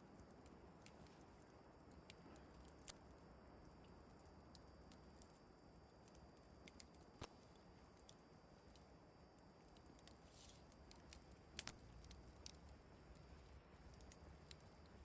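Near silence: faint scattered clicks and soft patter over a low, steady background hiss, with a few slightly sharper clicks spread through.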